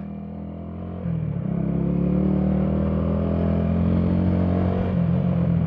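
Minsk D4 125 motorcycle's single-cylinder engine running while riding; about a second in the throttle opens and the engine gets louder, then holds a steady note.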